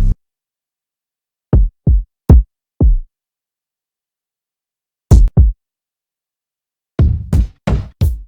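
Electronic drum machine one-shots auditioned one by one, deep hits with a falling pitch separated by dead silence. There are four single hits about a second and a half in, two more near the middle, and a quicker run of hits near the end.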